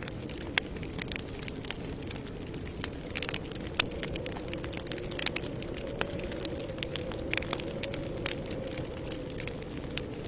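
Campfire burning: irregular sharp pops and snaps of burning wood over a steady low rush of flame, the loudest snap a little under four seconds in.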